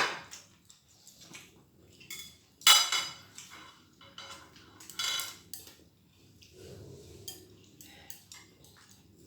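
Cutlery and dishes clinking and clattering during a meal, with two louder clatters about three and five seconds in.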